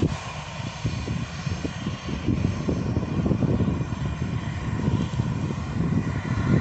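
Airliner's engines running loud and steady: a deep, wavering rumble with a faint whine above it.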